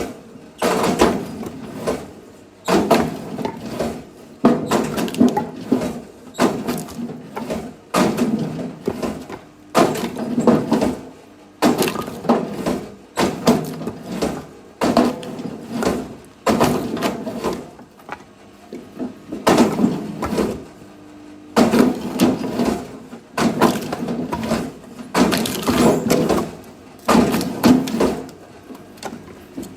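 Axe chopping firewood: a steady run of sharp wooden strikes, about one a second, each trailing off briefly.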